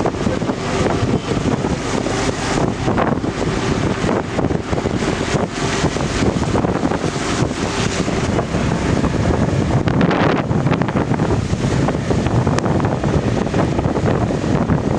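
Wind buffeting the microphone: a loud, steady rushing noise with frequent short gusts.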